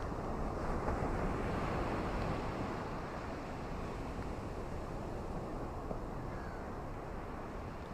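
Ocean surf washing on the shore with wind, a steady low rushing that swells slightly about a second in.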